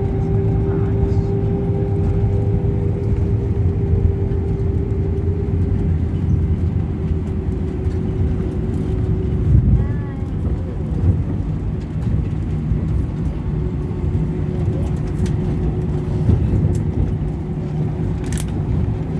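Airliner cabin noise: the steady rumble of jet engines and airflow inside the cabin, with a constant humming tone over it.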